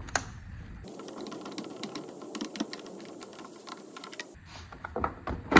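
Rapid light clicking and ticking of a hand tool working out a hidden screw in a plastic blower housing, followed by a louder knock near the end.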